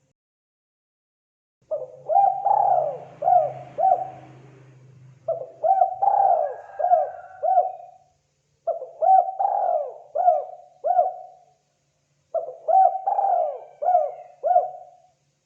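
Spotted dove cooing: four phrases, each a run of four or five short coos, with a brief pause between phrases.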